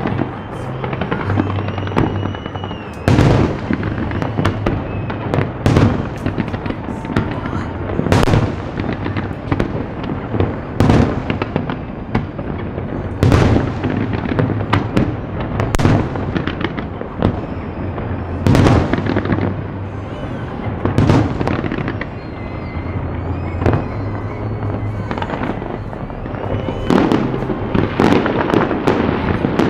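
Fireworks show: aerial shells bursting in loud bangs about every two to three seconds, each trailing off in an echo, with smaller cracks and crackle in between.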